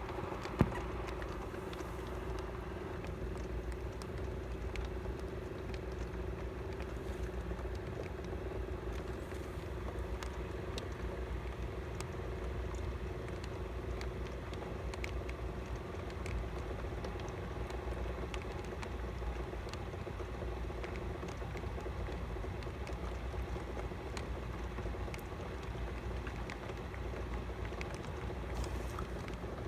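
Steady rain falling during a thunderstorm, with scattered sharp ticks of drops striking close by and a low rumble. A faint steady hum sits underneath and fades about two-thirds of the way through.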